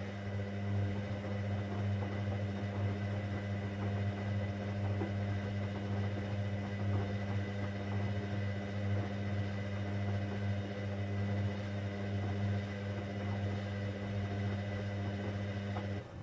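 Hoover Dynamic Next washing machine running a 60° cotton programme with a steady low hum that cuts off suddenly near the end.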